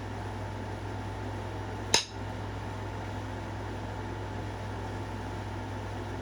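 One sharp stone click about two seconds in, a flake popping off a stone point during pressure flaking, over a steady low hum.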